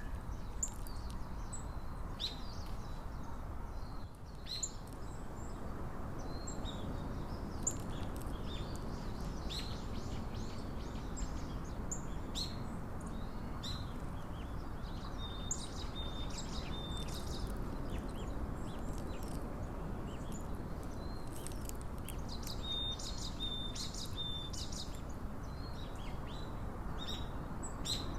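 Small wild birds chirping and calling in short high notes, with a couple of brief whistled notes, over a steady low background hiss of outdoor ambient noise.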